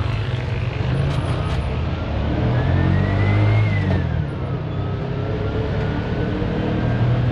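TVS King auto-rickshaw engine running under way. Its whine climbs in pitch for about two seconds, drops back sharply about four seconds in, then climbs slowly again.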